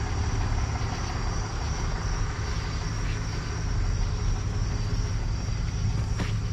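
A vehicle engine idling with a steady low hum, with crickets chirping steadily. A single sharp click about six seconds in.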